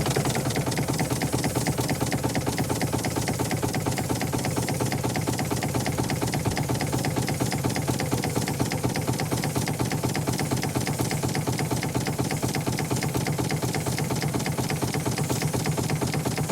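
An engine running steadily at a constant speed with a rapid, even pulse.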